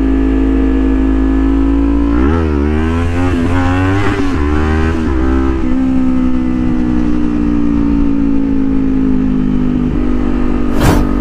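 Kawasaki Ninja 400 parallel-twin engine running at steady cruising revs, heard from the rider's helmet. From about two seconds in, the revs rise and fall several times in quick succession for a few seconds, then settle back to a steady note, with a short rush of noise near the end.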